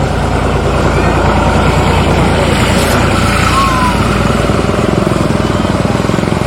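A motor vehicle's engine running steadily close by, with a deep rumble and a fast, even pulsing.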